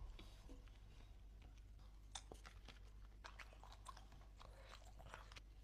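Faint mouth sounds of someone chewing food up close: irregular small clicks and smacks, a few a second, over a low steady hum.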